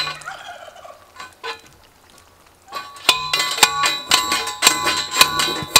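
Metal stake being hammered into the ground, each blow ringing with a metallic clang: one strike, a pause, then a steady series of about three to four blows a second from about three seconds in. The stake is hitting a buried rock.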